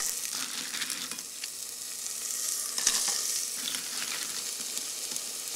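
Onion, shallot and garlic sizzling in olive oil in a pot as a spoon stirs them, with a few light clicks.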